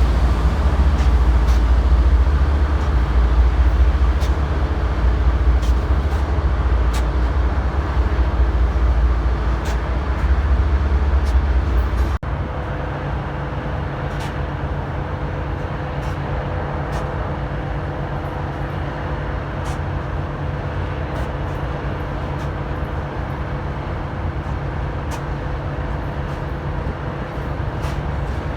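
Rail transit train sound: a heavy low rumble with scattered clicks, cutting off abruptly about twelve seconds in to a steadier, slightly quieter hum carrying a faint steady tone.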